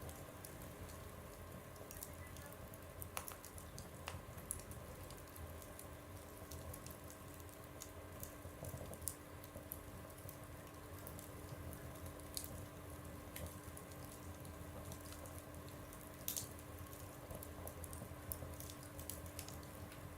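Wood fire burning in a stove, a steady low rush with scattered crackles and sharp pops from the burning wood.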